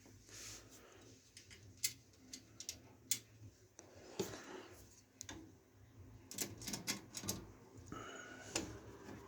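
Irregular small clicks and taps with some rustling, from hands handling computer parts and fittings, with a quick cluster of clicks about two thirds of the way in.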